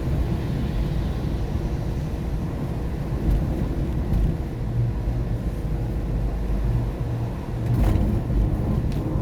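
Car cabin noise while driving on a wet highway at night: a steady low rumble of tyres and road with a faint hiss of rain and spray. Two brief knocks come near the end.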